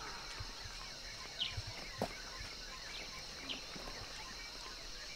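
Rural outdoor ambience: a steady high hiss with short bird chirps every couple of seconds, and a single sharp knock about two seconds in.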